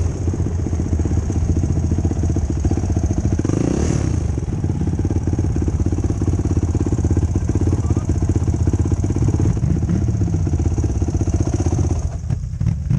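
The single-cylinder four-stroke engine of a 2005 Yamaha YFZ450 ATV running under way. Its revs rise and fall briefly about four seconds in and again around ten seconds in, with a few knocks near the end.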